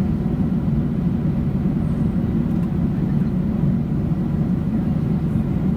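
Steady low drone of engine and airflow noise heard inside the cabin of a Boeing 777-200 airliner.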